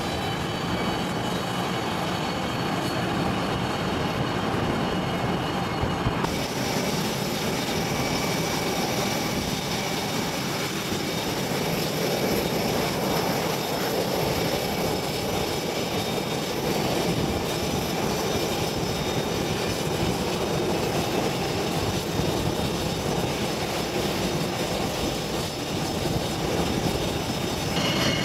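Fixed-wing airplane engine noise, a steady loud rush with a faint high whine at first. About six seconds in the sound changes abruptly to another stretch of steady engine noise.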